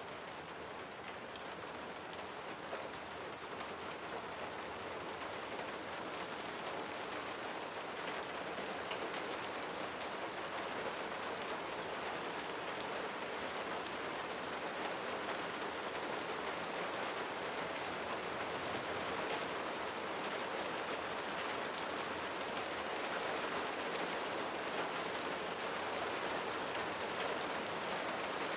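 Steady rain falling on leaves, a dense even hiss flecked with individual drop taps, swelling slightly in the first couple of seconds and then holding steady.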